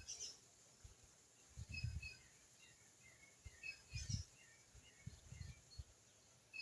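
Faint short high chirps from small birds, coming in little groups through the whole stretch, with soft low thumps about two and four seconds in.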